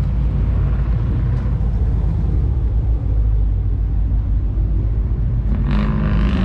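Car engine rumbling steadily at low revs, with a louder swell near the end.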